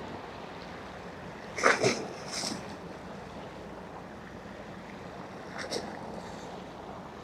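Steady harbourside wash of water and wind, with a few short, sharp calls or knocks about two seconds in and once more near six seconds.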